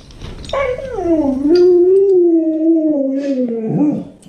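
A dog howling: one long howl that starts about half a second in, slides down in pitch, wavers, and drops away near the end.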